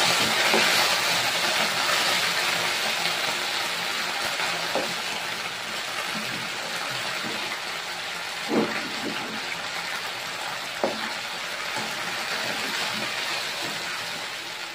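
Canned sardines with tomato and onion sizzling in a wok while being stirred with a slotted spatula; the sizzle slowly quietens, with two short knocks, one about eight and a half seconds in and another near eleven seconds.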